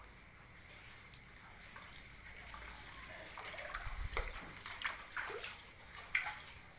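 Water splashing and sloshing, likely rainwater, faint and steady, with a handful of louder splashes in the second half.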